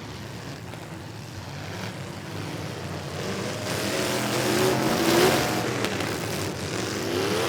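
Farm-truck engines running in a demolition derby; one engine revs up, its pitch and loudness rising to a peak a little past the middle, then eases off.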